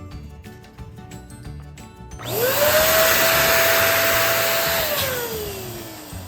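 Electric balloon inflator switched on about two seconds in: its motor whines up to a steady pitch and runs with a loud rush of air for about two and a half seconds, then winds down.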